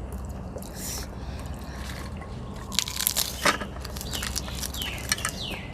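Crunching and biting as crisp food is chewed, loudest in the middle. Birds give several short, falling chirps in the second half, over a steady low hum.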